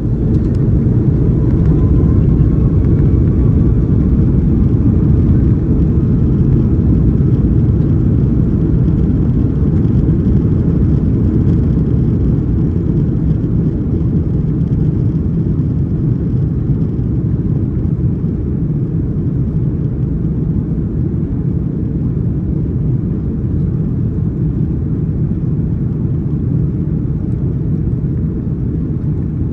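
Airbus A330-200 jet engines heard from inside the cabin, going up to takeoff thrust during the takeoff run: a loud, steady low rumble that starts abruptly, with a faint rising whine in the first few seconds as the engines spool up. The rumble eases a little about halfway through.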